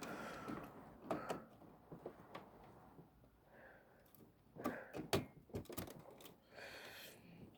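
Scattered light clicks and knocks of hands working inside an original Xbox, pushing a cable connector into the board.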